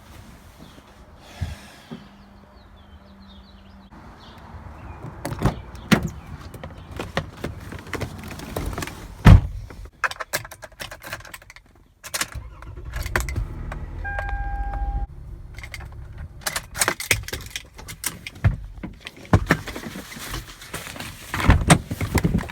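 Handling noise: a run of knocks, clicks and rattles, with a low rumble and a short electronic beep about two-thirds of the way through.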